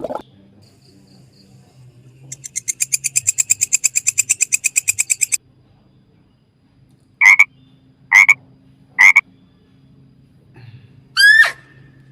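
Frog calls: a rapid pulsed trill of about ten pulses a second lasting about three seconds, then three short, loud calls about a second apart, and one last call that rises in pitch near the end.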